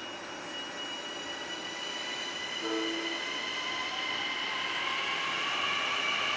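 Long Island Rail Road electric commuter train moving past the platform, its running noise growing steadily louder with a high, steady whine. A short low tone sounds about three seconds in.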